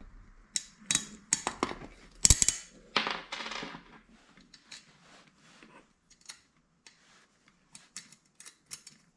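Small metal hardware being handled by hand: washers, nuts and bolts clicking and clinking while being fitted to a snowshoe binding. A busy run of clicks with one louder clack about two seconds in, thinning to a few light ticks.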